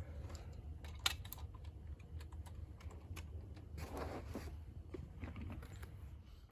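Scattered light clicks and clatter of metal tools and hardware being handled, in an irregular pattern with a busier patch about four seconds in, over a low steady hum.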